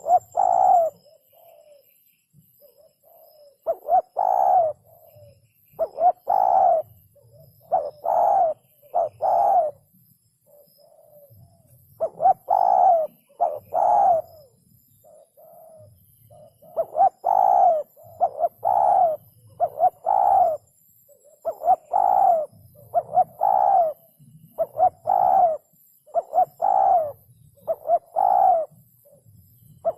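Spotted dove cooing: phrases of two or three low coo notes, repeated about every two seconds with short pauses between.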